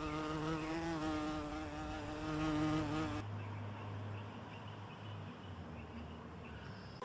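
A buzzing insect droning steadily with a slight waver, cut off abruptly about three seconds in. It is followed by a quieter low steady hum.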